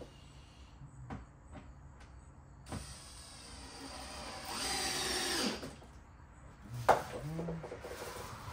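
Power drill driving a screw into a subwoofer box. The motor runs for about three seconds, its pitch dropping as it slows under load. A sharp click near the end is followed by a short second run.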